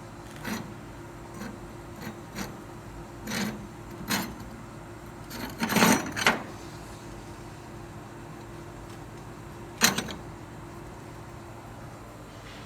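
Scattered knocks and light clinks, a cluster of louder ones about six seconds in and a single sharp knock near ten seconds, over a steady machine hum.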